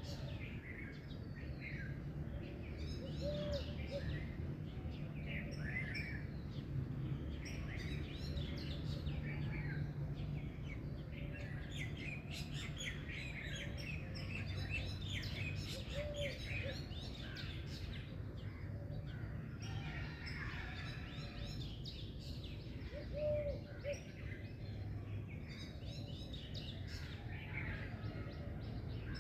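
A chorus of songbirds chirping and twittering, many overlapping short calls. A short low note recurs now and then over a steady low hum.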